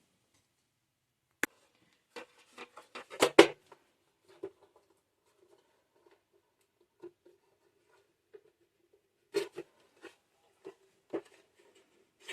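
Plastic parts of a camera bird feeder being handled, giving scattered clicks and knocks: a sharp click about a second and a half in, a quick run of clatter that peaks around three seconds, and a few more knocks later.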